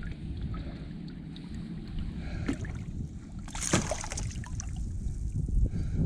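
Low wind rumble on the microphone with scattered clicks and knocks on the kayak, the loudest a single knock a little past the middle, as the just-landed grouper is handled aboard.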